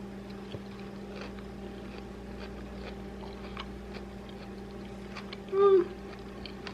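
Faint chewing clicks over a steady low hum, with one short, high, bending voiced sound about five and a half seconds in.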